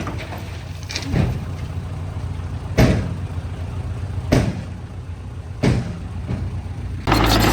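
Heavy diesel machinery engine running low and steady, with four sharp knocks about a second and a half apart. Near the end a louder engine sound comes in suddenly.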